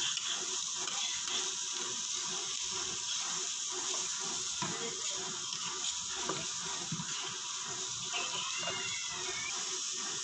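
Diced pork, onions and chilies frying in a pan: a steady sizzling hiss, with a metal spatula scraping and stirring through the food in irregular strokes.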